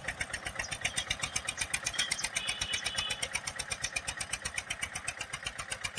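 Eicher 242 tractor's diesel engine running at a steady speed, with an even pulsing beat of about six to seven beats a second.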